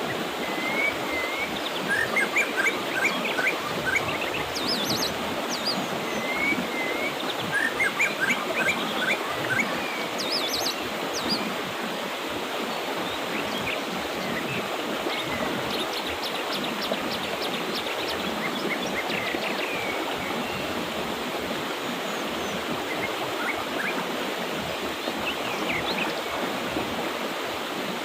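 Mountain river flowing steadily, with small birds chirping in short, high phrases on and off over the water, most busily in the first half.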